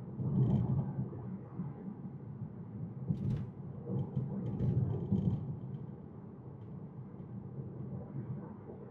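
Road and tyre noise heard inside a Tesla's cabin while driving at speed: a steady low rumble that swells twice, with a few faint clicks around the middle.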